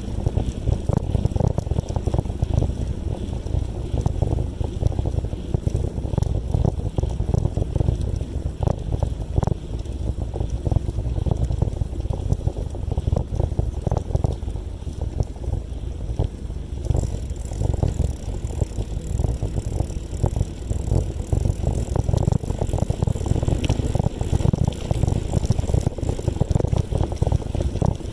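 Wind buffeting the microphone of a camera carried on a moving bicycle: a steady, heavy low rumble.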